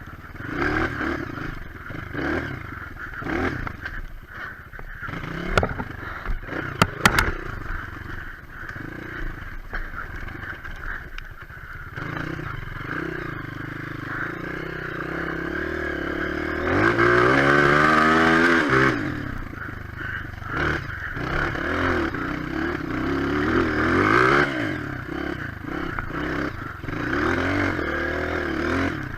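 Single-cylinder four-stroke trail motorcycle engine running at varying throttle over rough ground, with a strong rev that rises and falls in pitch a little past halfway. A few sharp knocks or clatters come about six to seven seconds in.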